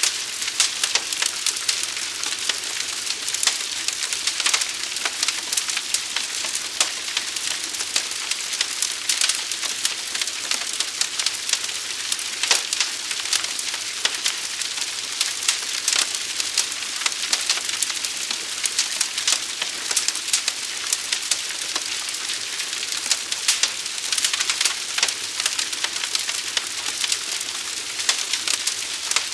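Fire burning with a dense, steady crackling and popping over a hiss.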